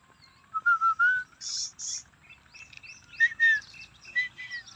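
Small birds chirping: a few short whistled notes, two brief noisy calls about a second and a half in, then a run of quick rising chirps and whistles.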